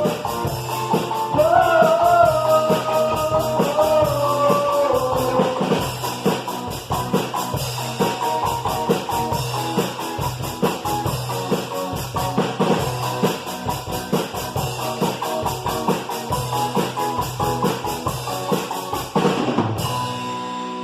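Rock band playing: a drum kit keeps a driving, steady beat with bass drum under guitar. A held, bending melody line rides on top for the first few seconds, and the music changes abruptly just before the end.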